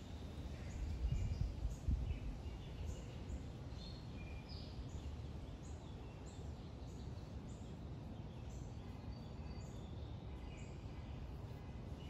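Small birds chirping, many short high calls scattered throughout over a steady low rumble of outdoor background noise, a little louder in the first couple of seconds.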